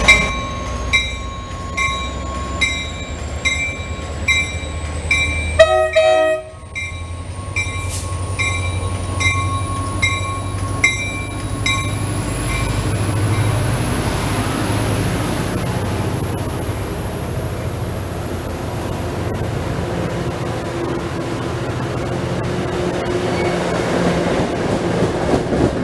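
MBTA commuter train's F40PH diesel locomotive arriving: its bell rings in even strokes, a little more than once a second, then a short horn blast sounds about six seconds in. After that the locomotive's diesel engine rumbles past, followed by the coaches rolling by with wheel noise.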